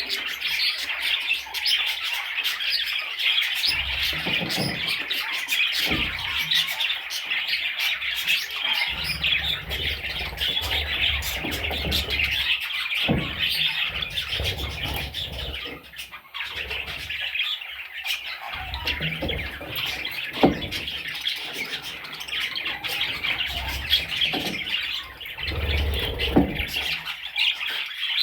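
Budgerigars chirping and chattering without a break, many calls overlapping, with a few short low thumps here and there.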